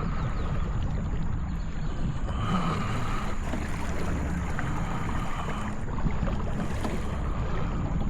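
Electric trolling motor on a kayak running, with a faint whine that comes and goes, over a steady low rumble of wind on the microphone and water moving past the hull.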